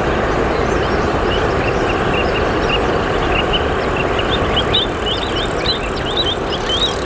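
Steady rush of flowing river water, with a small bird calling in short high chirps, two or three a second, louder in the second half.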